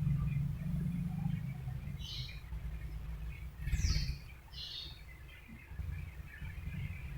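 A pet lovebird giving three short, high chirps, the middle one falling in pitch, over a steady low rumble.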